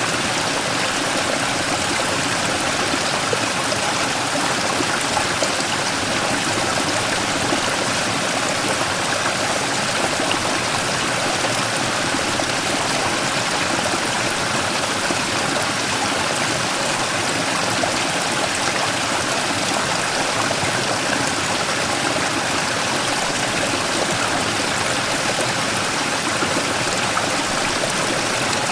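Mountain stream rushing and splashing over a large rock in a small waterfall, a steady, even rush of water.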